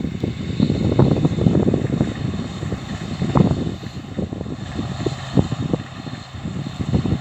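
Farm machinery running steadily in a harvest field, heard under heavy, gusty wind buffeting on the microphone.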